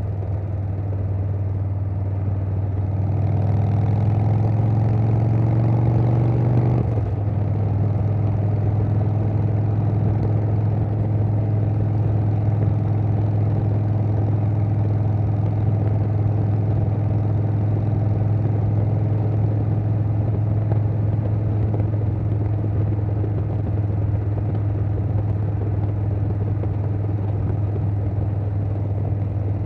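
2020 Harley-Davidson Softail Standard's Milwaukee-Eight 107 V-twin running through a Vance & Hines Big Radius 2-into-2 exhaust while riding. About three seconds in it pulls harder with rising pitch, drops off suddenly a few seconds later, then runs steadily at cruise.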